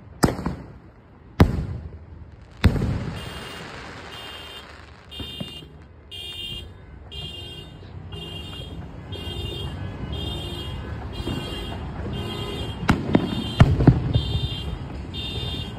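Three sharp firework bangs in the first three seconds, then a car alarm starts sounding, beeping about twice a second, with two more firework bangs near the end.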